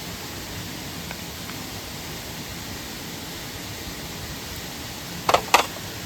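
Steady rushing of a mountain stream and waterfall, with two sharp clacks a quarter second apart near the end.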